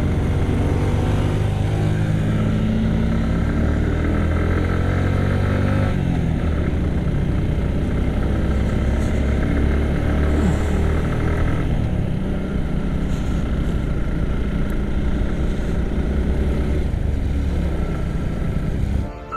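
Suzuki Gixxer SF single-cylinder motorcycle engine pulling up a steep climb: the engine note rises for about six seconds, drops, then runs steadily under load.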